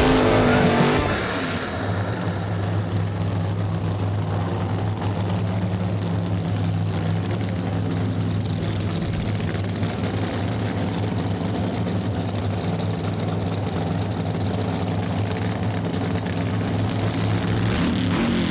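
Drag-racing funny car engine idling steadily with a low, even tone, then beginning to rev up near the end.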